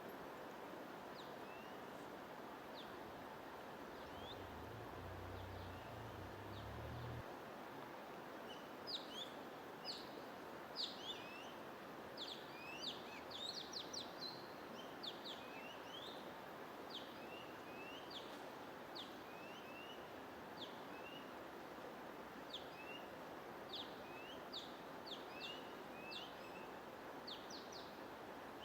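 Small songbirds chirping in short, quick up- and down-sweeping calls, sparse at first and busier from about a third of the way in, over a steady hiss of noise.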